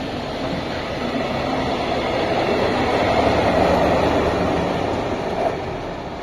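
A train passing by on the line: a steady rumble of wheels on rail that builds to its loudest about halfway through and then fades away, with one short click near the end.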